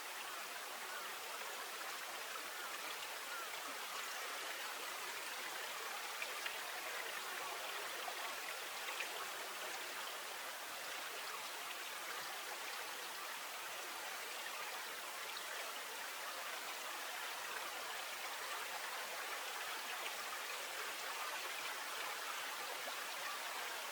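Steady hiss of flowing stream or river water, unchanging throughout, with a couple of faint ticks.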